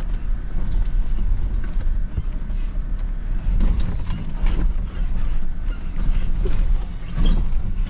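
Jeep Gladiator crawling over a rough dirt trail: a steady low rumble with scattered creaks and knocks as it works over the bumps.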